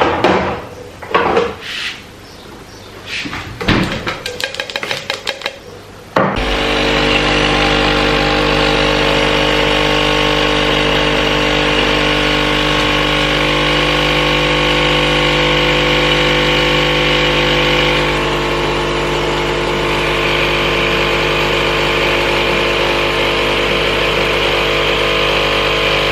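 A few seconds of knocks and clatter, then an electric motor switches on and runs loud and steady, with a fixed hum, for about twenty seconds before cutting off.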